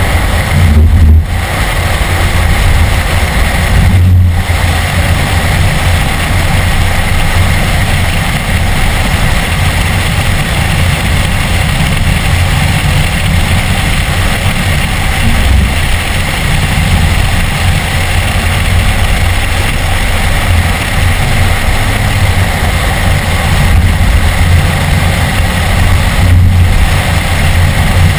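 BMW E46 M3's 3.2-litre S54 inline-six running hard under track driving, heard from inside the cabin together with road and wind noise. It is loud and steady, with brief drops in the engine sound about a second in, around four seconds in, and near the end.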